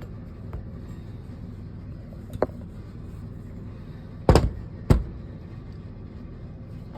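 Folding metal cooking rack being opened out: a couple of light clicks, then two sharp metal clanks about half a second apart, over a steady low hum.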